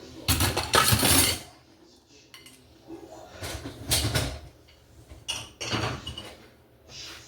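Dishes and cutlery clattering and clinking as they are handled and loaded into a dishwasher, in a few separate bursts, the loudest about a second in.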